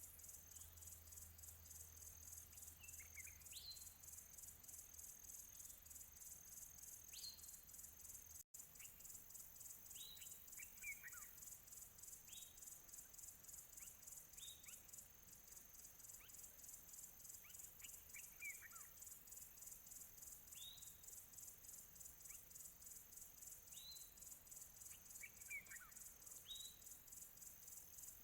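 Faint chorus of birds and insects. A steady, rapidly pulsing high insect trill sits under short rising bird chirps every couple of seconds and a few falling whistled notes. The sound cuts out for an instant about eight and a half seconds in.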